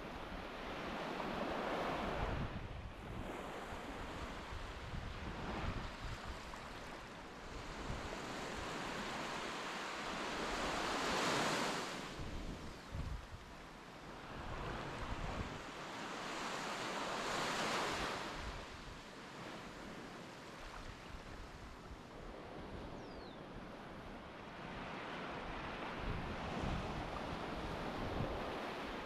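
Sea waves breaking and washing on the shore, swelling and fading every several seconds, with wind rumbling on the microphone.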